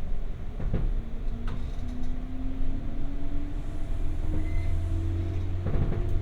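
Inside a 201 series electric train's motor car under way: the traction motor whine rises steadily in pitch as the train gathers speed, over the low rumble of the wheels on the rails. A few sharp clacks come from the wheels on the track.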